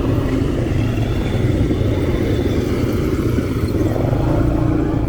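ATV engine running steadily under way, a continuous low engine hum.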